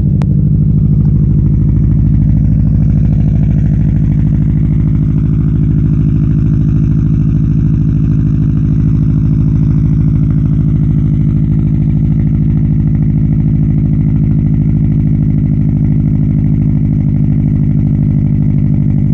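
Car engine idling steadily, with an even, unchanging note. It sounds normal even though a cracked piston has been diagnosed.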